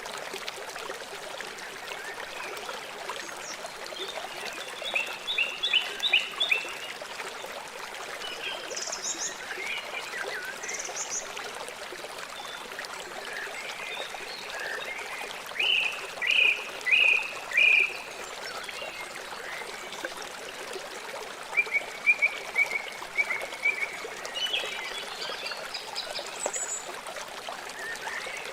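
A river flowing steadily. Over it an animal calls in short runs of three to five quick notes, three times, with a couple of brief high chirps in between; these calls are the loudest sounds.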